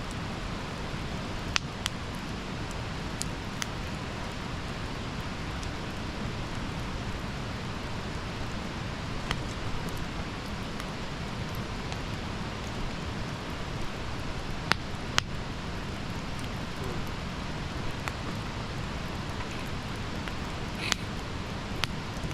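Campfire burning: a steady hiss with scattered sharp crackles and pops from the burning wood at irregular intervals, the loudest a pair about fifteen seconds in.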